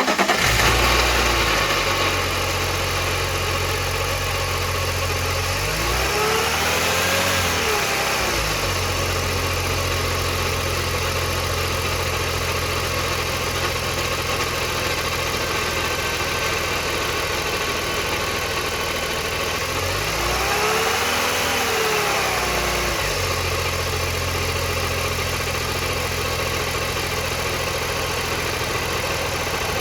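BMW E46 320i's M54 straight-six idling, revved briefly twice, about six and twenty seconds in. The rattle it makes was traced by the owner to a cracked weld on the lower part of the exhaust manifold, an exhaust leak.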